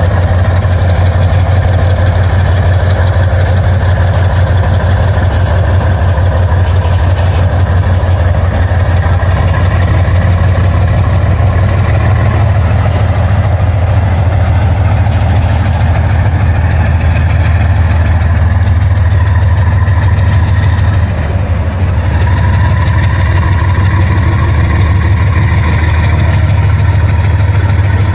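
Diesel locomotive engines running with a loud, steady low drone.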